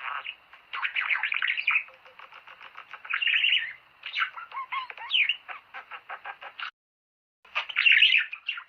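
Budgerigars chattering and warbling in a dense stream of rapid chirps and trills. The sound cuts out for under a second about seven seconds in, then resumes.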